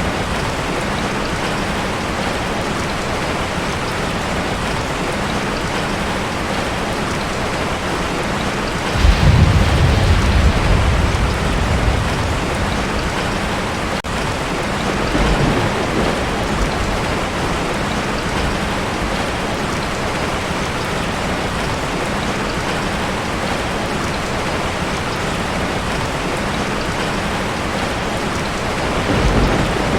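Heavy rain drumming steadily on a tin roof, with a roll of thunder breaking in about nine seconds in and fading over a few seconds, a weaker rumble near the middle and another starting near the end.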